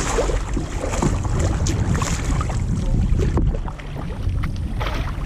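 Kayak paddles dipping and splashing in the water in irregular strokes, over a steady low rumble of wind on the microphone.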